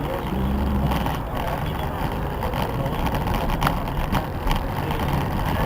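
Steady engine and road rumble of a car moving in city traffic, heard from inside the cabin. Two short knocks come about three and a half and four seconds in.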